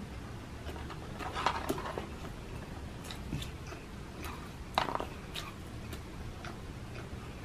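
A person chewing and biting food close to the microphone: small wet mouth clicks throughout, with two louder bites, one about a second and a half in and one about five seconds in.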